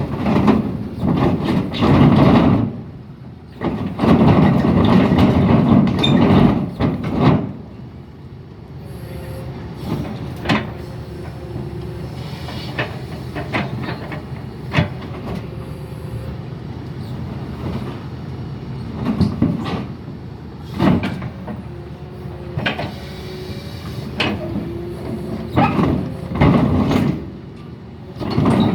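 Doosan excavator running under load as it is dragged off a barge deck, with heavy metal clanks and knocks from the tracks and deck; it is loudest in the first several seconds, then settles to a steadier running noise with scattered knocks. One track does not drive because of a failed final drive.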